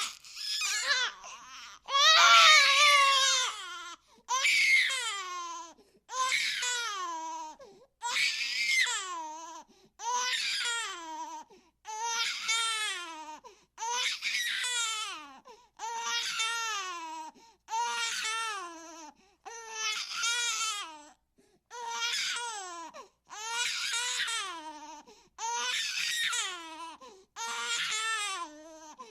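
A baby crying in a steady run of wails, one about every two seconds, each falling in pitch. The wail a couple of seconds in is the loudest.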